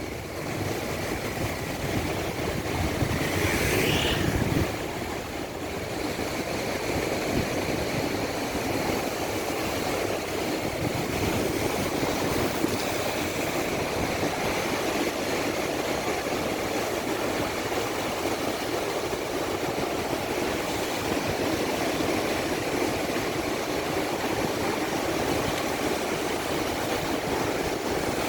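Rough sea surf breaking in a steady roar of heavy waves, with a brief rising high sound about four seconds in.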